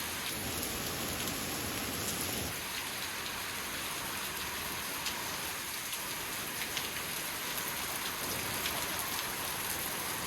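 Water from a waterfall showering and dripping down like rain: a steady hiss with many small drops striking.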